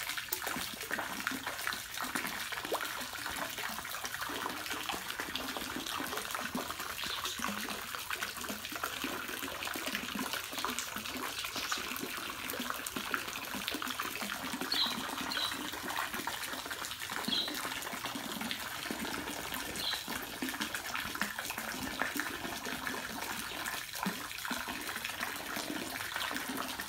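Steady trickling and running water. A few short high chirps come in from about halfway.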